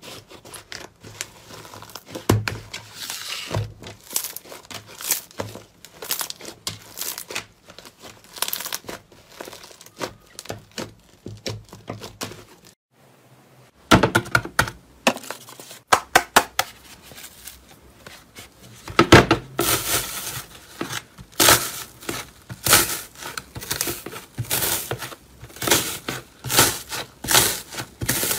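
Crisp crackling and crunching as a crunchy material is pressed and broken by hand, with a short break about halfway and louder, more regular crunches in the second half.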